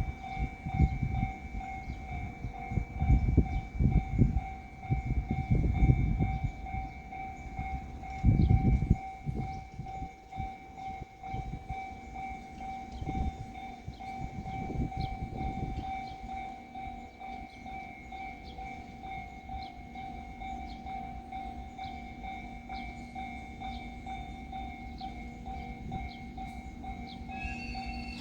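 Royal Express train's wheels clattering over rail joints while passing, in clusters of low knocks that thin out and fade over the first half. A steady high tone runs underneath throughout.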